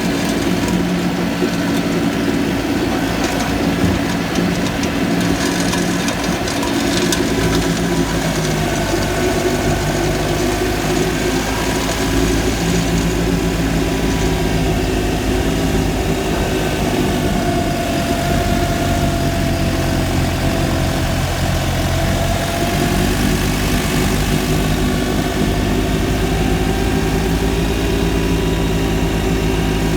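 Kubota B2650 compact tractor's three-cylinder diesel engine running steadily at high revs, about 2,200 to 2,500 rpm, driving a PTO snowblower. Its pitch shifts slightly around the middle.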